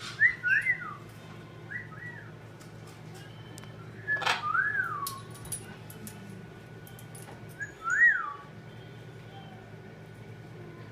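A person whistling about four short notes that rise and fall in pitch, spaced a few seconds apart, with one brief sharp high sound about four seconds in.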